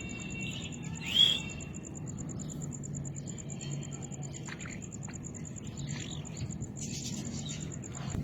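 A bird gives one short, loud rising call about a second in, over a steady high-pitched pulsing trill and a few faint chirps.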